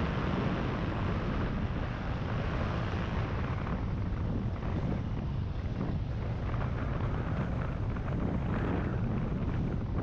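Wind rushing over the microphone in flight, a steady noisy rush with a low rumble beneath it; the higher hiss eases off about four seconds in.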